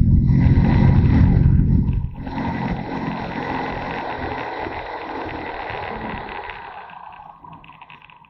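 Motorcycle engine running, heard from on board the bike; about two seconds in the low engine sound drops away suddenly, leaving a hiss that fades steadily to near silence.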